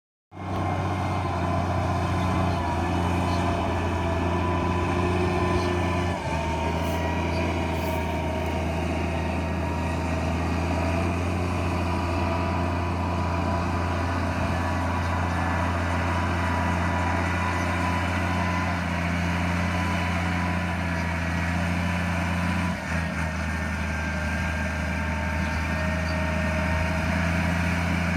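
Valtra tractor's diesel engine running steadily at a constant speed, with two brief dips about six seconds in and near the end.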